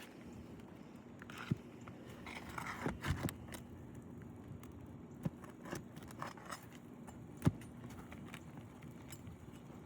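Hand tool work on an asphalt shingle roof: scattered light metallic clicks and knocks, with a scraping stretch from about two to three and a half seconds in and one sharper knock near seven and a half seconds.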